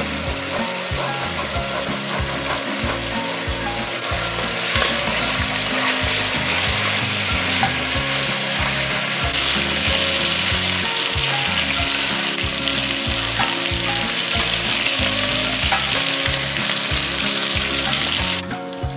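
Boneless chicken thigh pieces sizzling as they fry in vegetable oil in a pan, stirred with a wooden spoon. The sizzle grows louder about four or five seconds in and cuts off just before the end. Background music plays under it.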